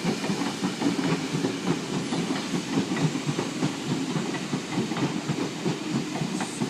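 Sydney Trains S-set double-deck electric train running into the platform, a steady rumble with many irregular knocks of the wheels over rail joints.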